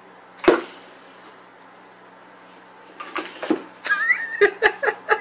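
A sharp knock, then a run of uneven knocks and clatter, with a short wavering squeak among them.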